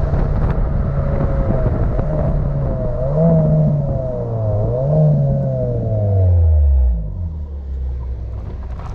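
Car engines under way over heavy wind and road rumble. The engine note rises and falls a few times through the middle, then slides steadily down as the cars slow, and the noise eases off near the end.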